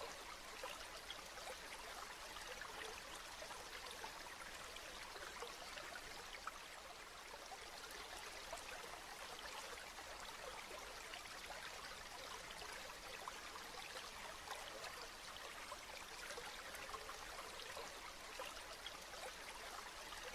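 Steady rain falling: an even hiss flecked with countless small drop ticks.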